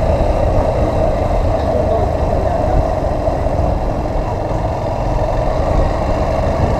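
Motorcycle running steadily while riding, its engine drone mixed with wind rush on the microphone.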